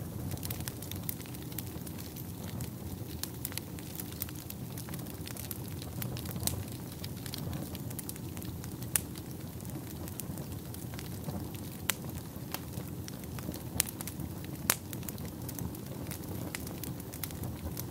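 Wood fire burning in a fireplace: a steady low rush of flames with irregular sharp crackles and a few louder pops.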